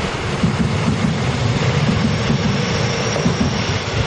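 A passenger train running past along the platform: a steady rolling rumble of wheels on rail with uneven low pulses, and a faint high whine in the second half.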